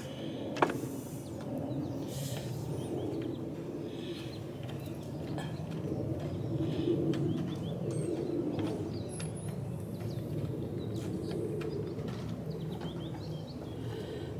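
Small birds chirping over a steady low rumble, with scattered metallic clicks and taps of hand work on the mower; one sharp click comes about half a second in.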